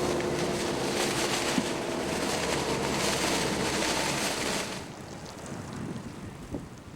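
Loud wind rush with a faint steady engine hum under it, dropping away sharply about five seconds in.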